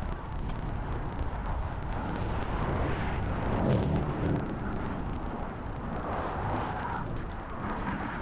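Outdoor road noise: a steady rumble of traffic and wind, louder about four seconds in.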